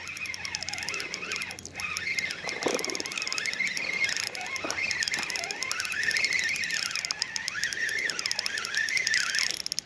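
Fishing reel being cranked to bring in a hooked fish, a fast fine clicking, with high squeaky chirps wavering over it throughout.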